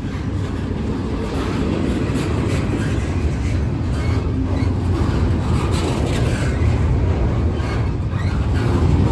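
Double-stack intermodal freight train's well cars rolling past close by: a steady rumble of steel wheels on rail with repeated clicks from the wheels and couplings.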